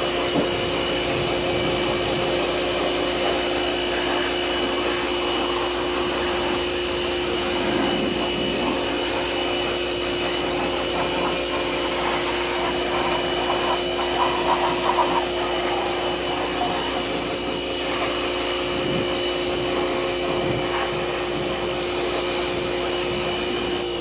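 Pressure washer running steadily with an even spray hiss and a constant motor-and-pump whine.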